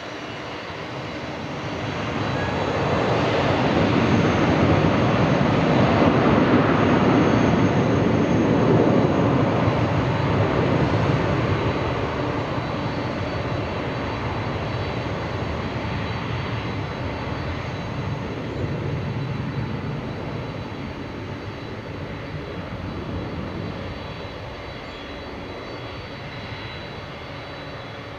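Boeing 747-400's four jet engines at takeoff power. The noise swells over a couple of seconds, stays loudest for several seconds, then slowly fades.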